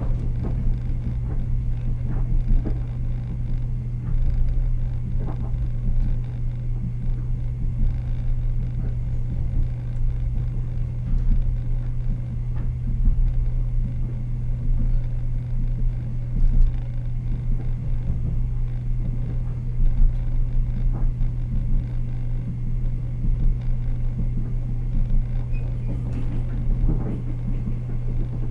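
Ride noise inside a Taiwan Railway EMU100 electric multiple unit running along the line: a steady low hum over the rumble of the wheels on the track, with a few faint knocks now and then.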